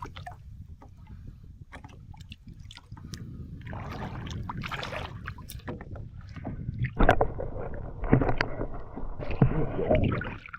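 Shallow salt water sloshing and splashing, growing louder from about three seconds in, with a few sharp knocks near the end.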